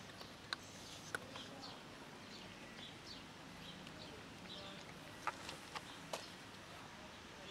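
Small birds chirping repeatedly in the background, with a few sharp clicks, two within the first second or so and three more late on.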